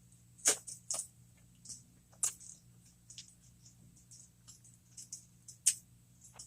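Close-miked mouth sounds of eating a cheeseburger jalapeño popper: scattered wet clicks and smacks of chewing, about five sharper ones spread unevenly, over a faint steady low hum.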